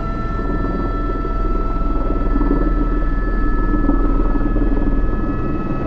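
Airbus H125 (AS350 B3) helicopter in flight, heard from the cockpit: the single turbine's steady high whine over the dense rumble of the rotor, getting a little louder about two seconds in.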